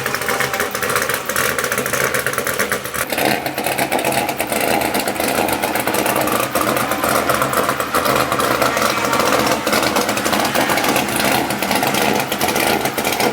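Loud race car engines running steadily, the note changing about three seconds in.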